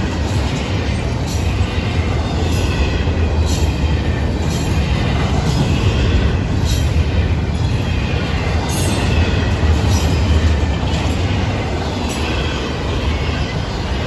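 Double-stack intermodal freight cars rolling past close by: a steady, loud low rumble with irregular sharp wheel clacks and a faint high wheel squeal.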